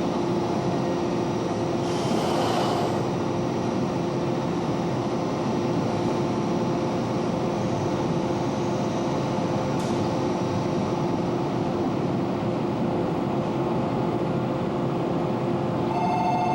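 Electric commuter train at a station platform, a steady hum over a rumbling noise, with a short hiss about two seconds in. Near the end an electronic chime tone begins.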